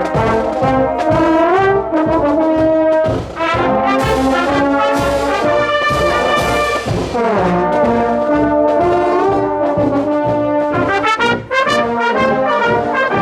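High school marching band playing on parade: trombones, trumpets and horns carry a melody over a steady drum beat.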